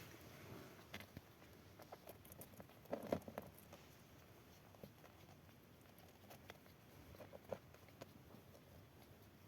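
Faint, scattered little squeaks and rustling clicks from newborn Pomeranian puppies, with a short cluster about three seconds in the loudest.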